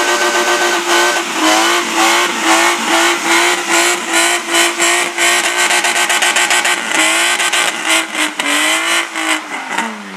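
Slalom competition car's engine held at high revs, then dipping and picking up again about twice a second as the throttle is worked through the course, with a longer drop in revs and a sharp rise near the end.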